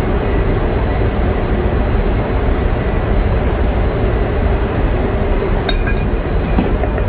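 Large diesel generator engine running steadily, a loud continuous engine-room drone. A few light metallic clinks come near the end.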